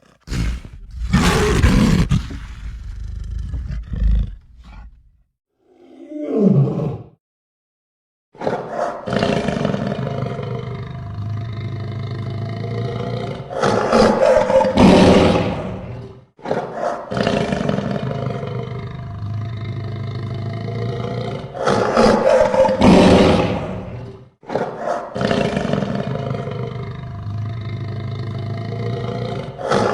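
Layered lion-and-monster roar sound effects: a short roar and a brief growl, then the same long roar three times over, each swelling to its loudest near its end.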